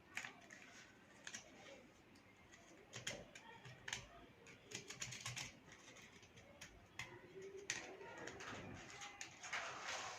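Faint, irregular clicks and taps of small plastic and metal parts being handled, from the power strip being worked on after its contacts were cleaned.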